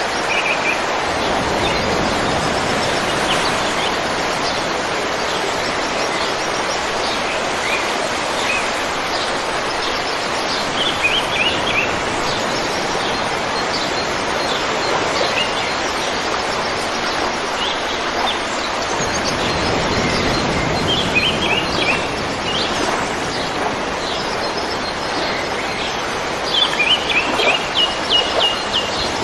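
River water flowing steadily, with small birds chirping over it in short runs of quick notes, the loudest run near the end.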